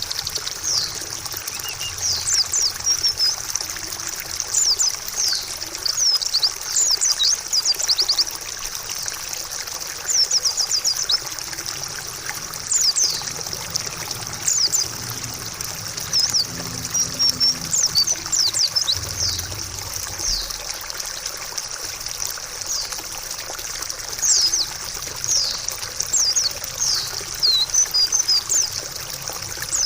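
Trickling water running steadily under a pleci (white-eye) singing in quick, high chirping runs that come again every second or two.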